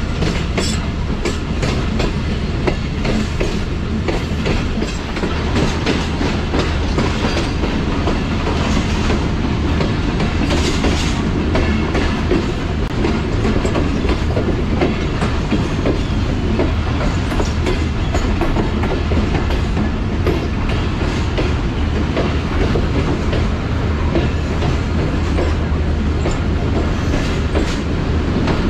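Passenger train running on the rails: a steady low rumble with wheels clicking and clattering over the rail joints.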